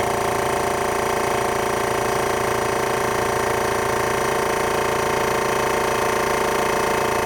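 MAX AK-615PII air compressor running steadily, its motor and pump giving a constant hum that holds the same pitch and level throughout.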